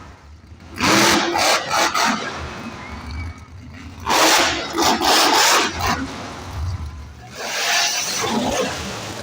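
Monster truck engine revving hard in three loud bursts, with a low rumble between them.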